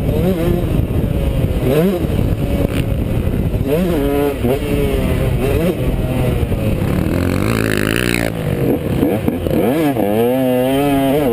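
Motocross dirt bike engine revving hard and backing off over and over as it is ridden around the track, its pitch climbing and dropping with throttle and gear changes. There is a brief rushing hiss about seven seconds in.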